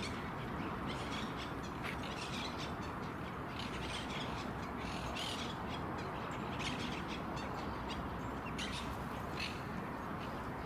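Birds calling: many short, harsh squawks from several birds, scattered irregularly over a steady low background noise.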